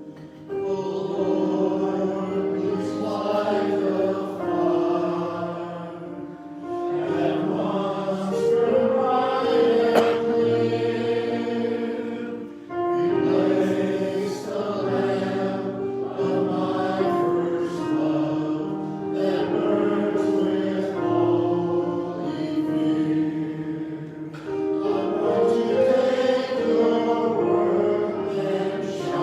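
Church music: a group of voices singing together in long held phrases, with short breaks between phrases about six, thirteen and twenty-four seconds in.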